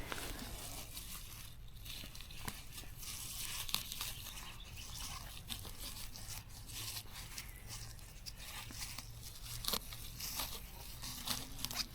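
Plants being pulled and torn by hand, with leaves and stems rustling and small snaps scattered throughout.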